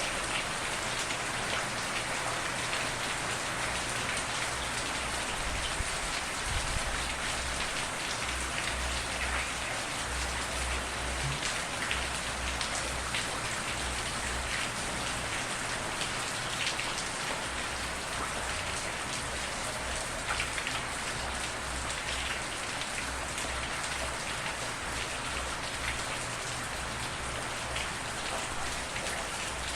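Steady rain falling, with no thunder: an even hiss with the patter of individual drops.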